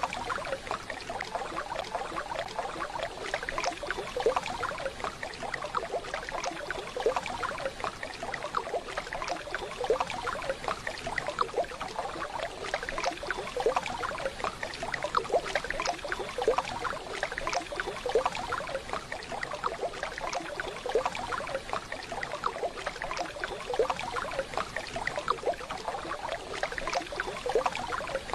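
Running water from a waterfall: a steady, dense splashing and babbling.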